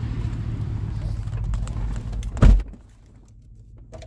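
Steady low vehicle engine rumble, then a single loud thump about two and a half seconds in, after which the rumble drops away and it goes quiet.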